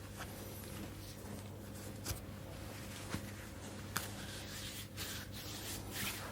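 Soft, close-up rubbing and brushing of hands over skin and cloth, an ASMR massage, with a few faint clicks and a steady low hum underneath.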